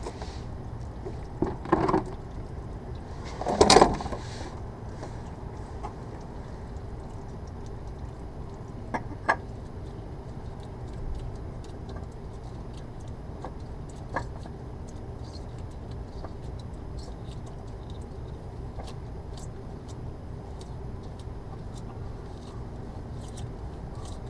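Handling noises while a spin-on oil filter is fitted by hand: two short clunks or rustles in the first few seconds, then a few faint clicks, over a steady background hum.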